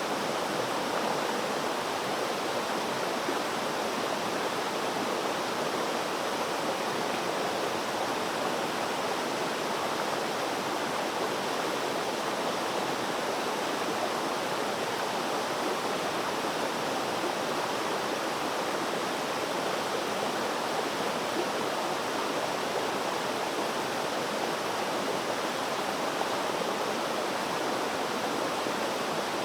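Flowing water rushing in a steady, unbroken stream, an even hiss with no splashes or changes.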